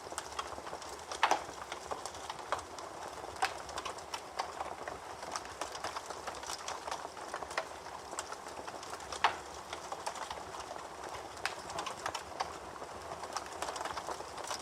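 Campfire crackling: a steady hiss of burning wood with irregular sharp pops, two louder ones about a second in and again about nine seconds in.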